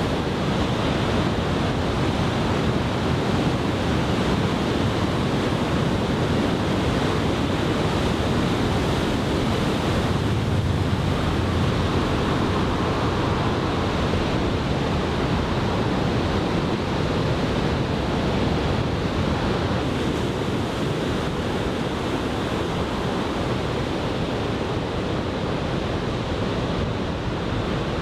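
Large typhoon swell breaking on a sandy beach: a steady wash of surf, with wind on the microphone.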